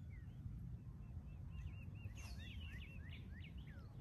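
Wild birds chirping and calling, with a quick run of short repeated notes in the middle and sweeping calls after it, over a low steady rumble of wind on the microphone.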